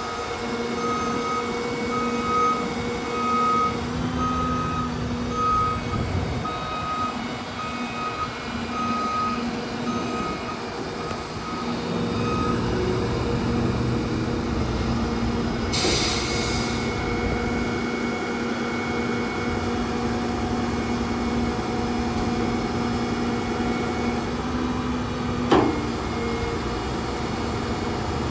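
Hino grapple truck's diesel engine running steadily while its backup alarm beeps about once a second, fading out after some twelve seconds. About sixteen seconds in, a short burst of air hisses, and a single sharp knock comes near the end.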